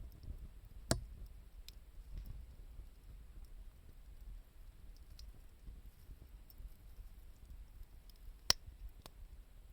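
Burning firewood crackling, with two sharp pops, one about a second in and a louder one near the end, and fainter ticks between them over a low steady rumble.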